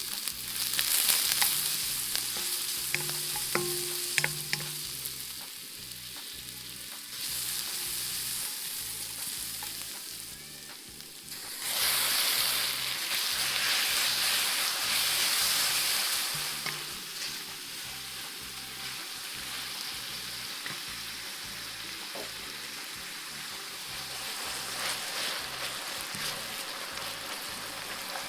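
Stir-fry sizzling in a hot pan while being stirred, with scattered clicks of the utensil against the pan. About twelve seconds in, the sizzle surges louder for a few seconds, then settles back to a steady fry.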